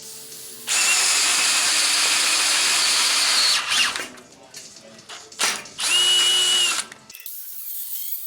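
DeWalt 20V cordless drill boring into steel. It runs steadily for about three seconds, stops, then makes a shorter run with a high whine about six seconds in.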